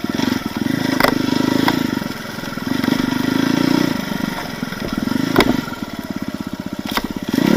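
Off-road motorcycle engine on a rough forest trail, throttle opening and closing in surges every second or two, with a few sharp knocks and clatters as the bike goes over obstacles.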